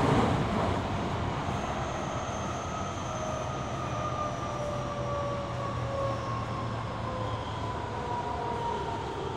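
Toyo Rapid Railway 2000 series electric train heard from inside the car, slowing for a station stop: the traction motor whine falls steadily in pitch over the rumble of wheels on the track.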